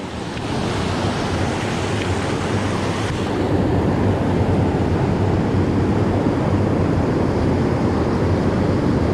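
Creek water rushing over rocks: a steady, loud rushing that grows a little louder about three seconds in.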